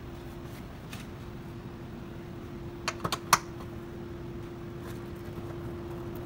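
Four quick sharp clicks close together about three seconds in, over a steady hum with one constant tone.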